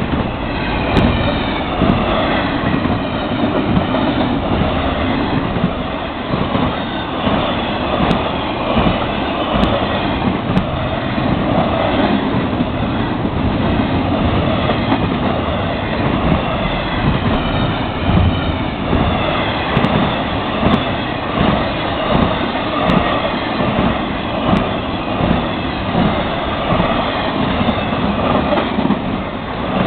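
Florida East Coast Railway intermodal freight cars, loaded with trailers and containers, rolling past at track speed. A loud, steady rush of wheel and rail noise has a beat of wheel clatter about once a second.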